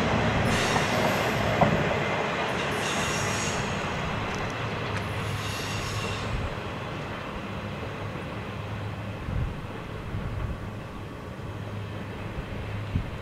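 Empty intermodal flatcars of a BNSF freight train rolling past, steel wheels rumbling on the rail with bursts of high wheel squeal during the first half, the sound fading steadily as the tail end draws away.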